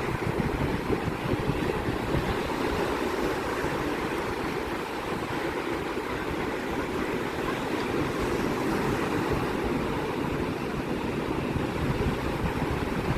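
Sea surf washing and breaking continuously, with wind buffeting the microphone in a ragged low rumble.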